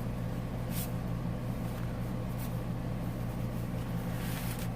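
Paper pages and tags of a handmade journal rustling briefly as they are turned, about a second in and again near the end, over a steady low electrical hum.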